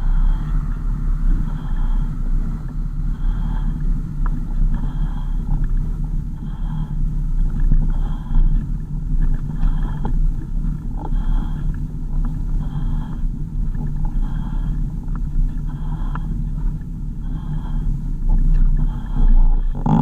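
Car driving, with a steady low engine and road rumble heard from inside the cabin. A faint high sound repeats about every one and a half seconds.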